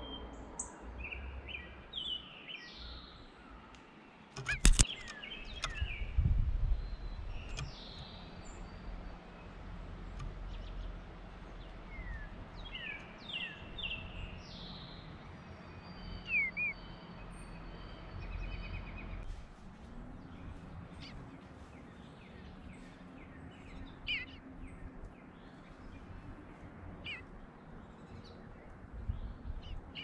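Birds calling with scattered short chirps and whistled notes. A single sharp knock comes about four and a half seconds in, followed by a brief low rumble.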